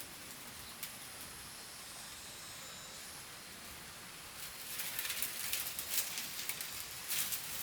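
Rustling and scraping with quick crackling clicks for about three seconds over a steady faint hiss, with a single sharp click about a second in.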